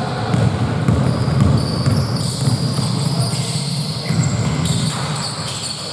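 Basketball game sounds in a gym: a ball bouncing on the hardwood court amid the echoing din of the hall.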